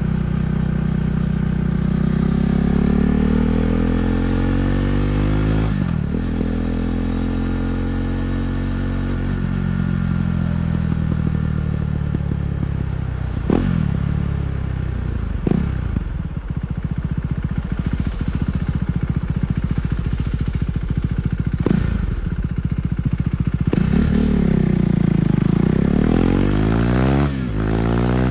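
KTM 390 Duke's single-cylinder engine through an Akrapovič exhaust, ridden in traffic: revs rise and fall again and again, with several sudden breaks in the note as it changes gear.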